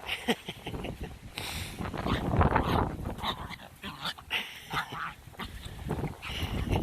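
A dog whining and barking in short, irregular calls over a low rumble of wind on the microphone.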